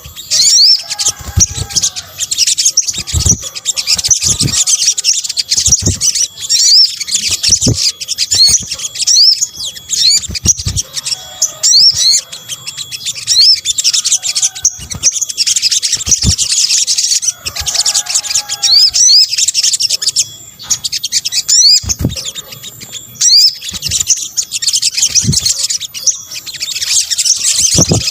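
Olive-backed sunbird (sogok ontong) song used as a lure call: rapid, high-pitched twittering chirps in quick runs throughout, with a few lower calls and frequent sharp clicks.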